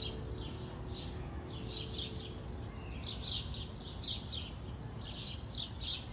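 Birds at a bird feeder chirping: quick clusters of short, high chirps, several a second, over a steady low rumble.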